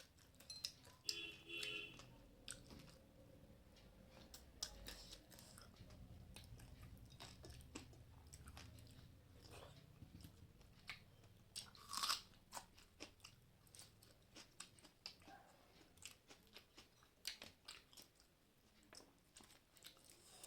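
A person chewing and crunching food close to the microphone: many short, irregular crunches and mouth clicks, with a louder crunch about twelve seconds in.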